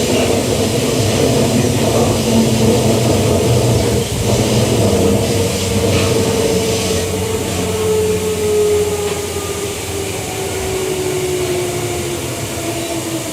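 Inside a Queensland Rail EMU electric train running on the rails, with a few knocks. From about five seconds in, a traction motor whine falls steadily in pitch as the train slows.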